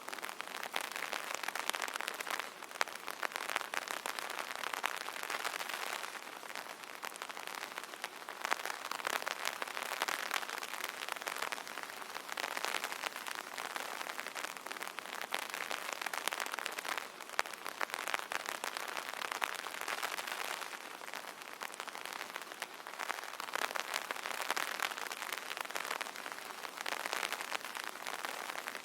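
Rain pattering on an umbrella canopy: a dense, steady patter of drops that swells and eases every few seconds.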